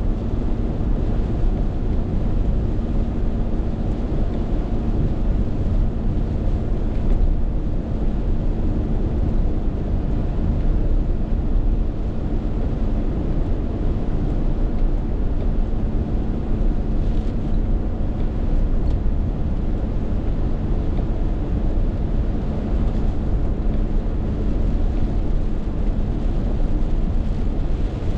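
Rainstorm wind buffeting the microphone: a steady, loud low rumble with no letup.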